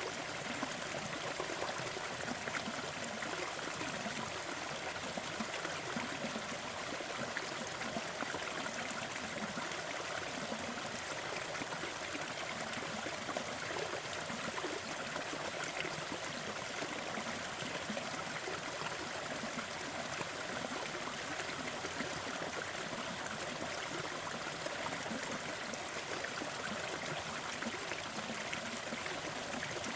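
Waterfall: falling water splashing and rushing steadily, a dense even hiss with no pauses.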